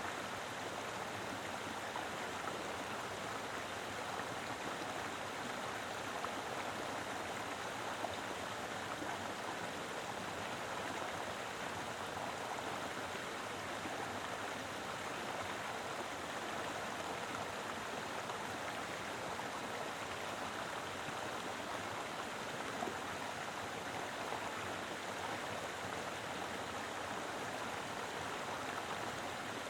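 Mountain river flowing steadily over rocks: a full, even rush of water with small splashes and gurgles throughout.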